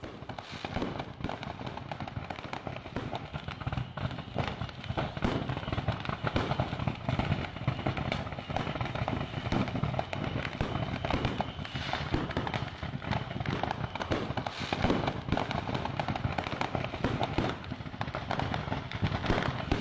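Stockpiled fireworks and firecrackers going off in a burning fireworks warehouse: a continuous dense crackle of rapid pops and bangs.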